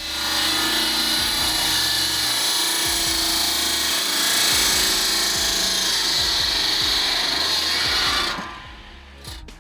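A 600 mm circular disc saw blade cutting through a log: a loud, steady, high-pitched sawing hiss that lasts about eight seconds and then dies away.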